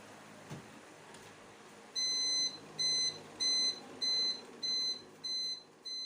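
Electronic buzzer beeping in a steady pulse: seven short, high-pitched beeps of one steady pitch, about one every 0.6 seconds, starting about two seconds in.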